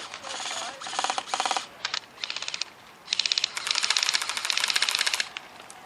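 Airsoft electric gun firing on full auto in several short bursts of rapid clicking, about twenty shots a second, the last burst the longest and loudest.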